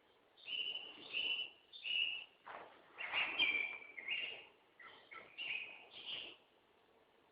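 Woodland songbirds singing: a run of short, bright chirping phrases repeated about every half second to second, loudest in the middle. The recording is from a low-quality phone, so the highest notes are cut off.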